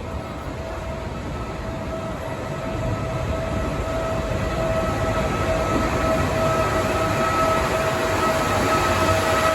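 Trenitalia locomotive-hauled regional train pulling into the station: a rumble that grows louder, with a steady high whine over it.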